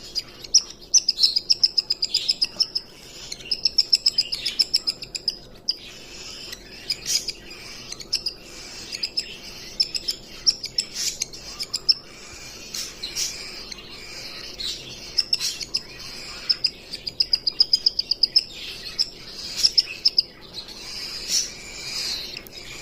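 Cockatiel chirping in repeated quick runs of short high notes, with brief pauses between runs.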